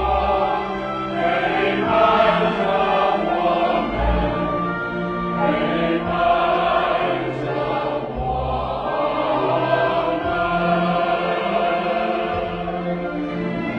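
A choir singing a slow song in sustained, held notes over instrumental accompaniment, with a deep bass note sounding about every four seconds.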